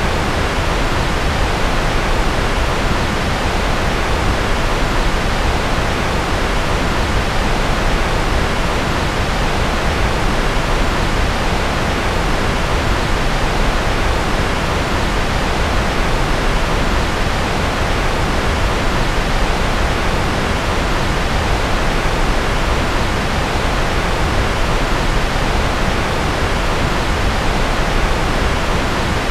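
Steady electronically generated noise, sold as white noise: an even, unchanging hiss spread from deep to high pitches, its top end gently rolled off.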